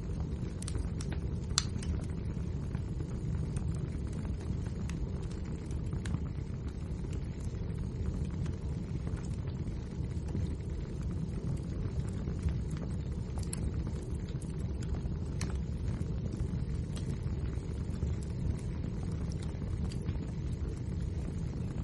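Wood fire burning: a steady low rumble of flames with scattered sharp crackles and pops, a few of them louder.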